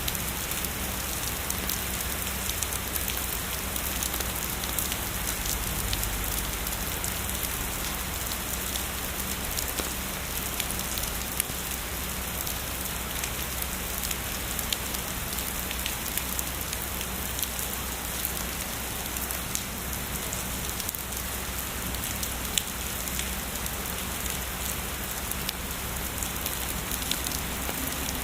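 Heavy rain falling steadily, a dense hiss sprinkled with sharp ticks of single drops striking, over a steady low rumble.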